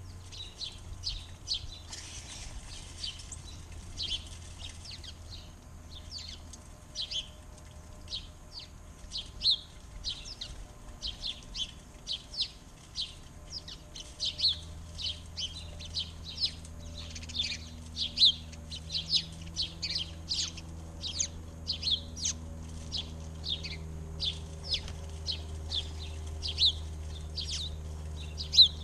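Small backyard birds chirping busily, short sharp chirps several a second, overlapping from more than one bird, over a steady low hum.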